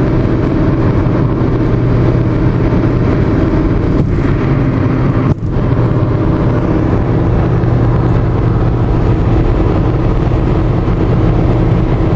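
Steady engine hum and road noise inside a moving car's cabin, with a brief dip about five seconds in.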